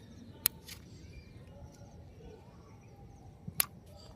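A few sharp clicks or knocks, the loudest about three and a half seconds in, over a faint steady outdoor background.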